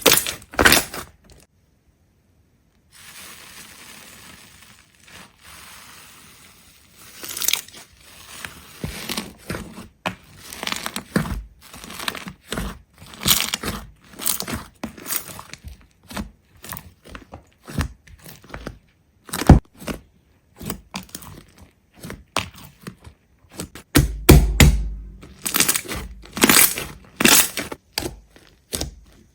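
Crisp crunching and cracking of something brittle being crushed, many quick sharp cracks in irregular succession, broken by a short silence about two seconds in and a stretch of faint hiss before the crunching resumes.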